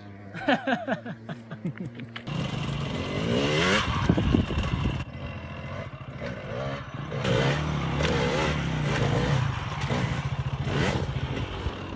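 Dirt bike engine starting to run about two seconds in, then revving up and down.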